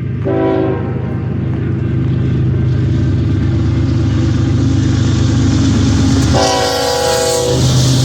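Union Pacific freight train's diesel locomotives running under a steady low engine drone, sounding the air horn twice: a short blast near the start and a longer blast about six and a half seconds in.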